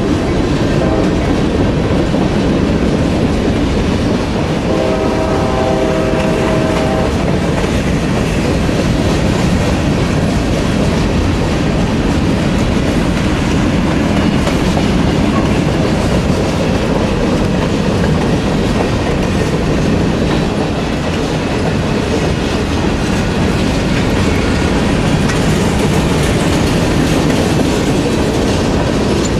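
Freight train of covered hopper cars rolling past close by, a steady loud rumble of wheels on the rails. A locomotive horn chord ends just after the start and sounds again about five seconds in, for about two seconds.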